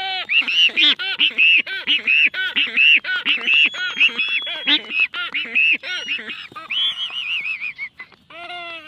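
A rapid run of short, overlapping pitched animal calls, several a second at different pitches, with a longer held call about seven seconds in.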